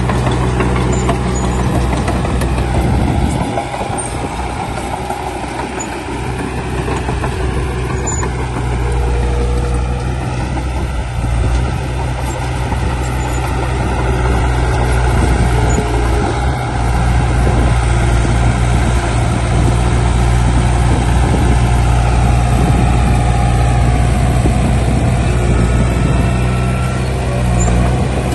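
Heavy diesel earthmoving machinery running steadily: a deep engine drone with a fainter whine that wavers in pitch. It grows somewhat louder about halfway through.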